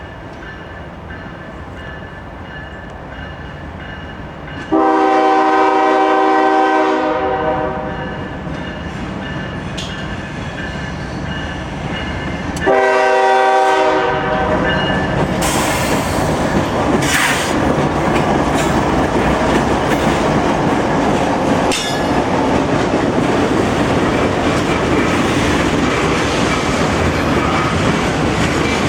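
Locomotive air horn sounding a long blast and then a shorter one as a train approaches. The train then passes close by with loud, steady wheel and rail noise and a few sharp clicks.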